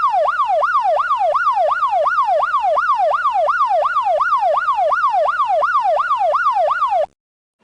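Electronic police siren in its fast yelp mode, the pitch sweeping up and down about three times a second. It cuts off abruptly near the end.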